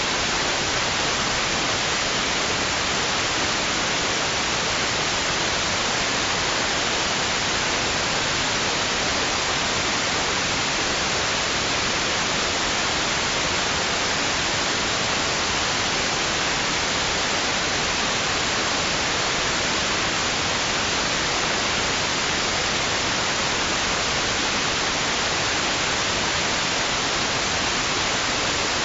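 Steady white noise for baby sleep: an even, unbroken hiss with no rise and fall.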